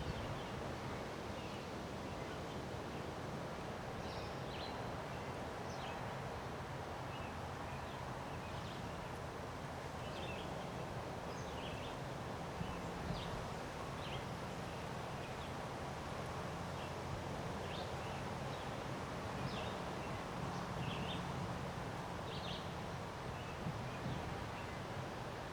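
Steady rush of wind, with short bird chirps scattered throughout.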